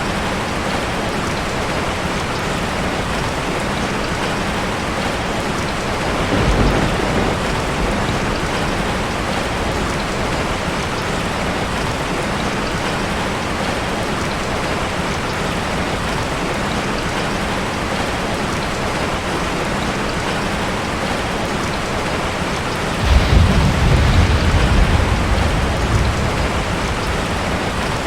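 Heavy rain falling steadily, with a brief low rumble of thunder about six seconds in and a longer, louder roll of thunder near the end.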